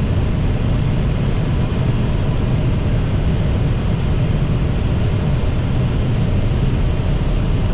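Steady rush of airflow and engine noise inside an Airbus A320 cockpit on short final, just above the runway before touchdown.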